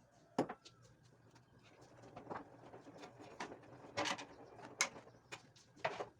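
Irregular sharp knocks and clinks of kitchen items being handled and set down during cleaning, about seven in all, over a faint steady hum.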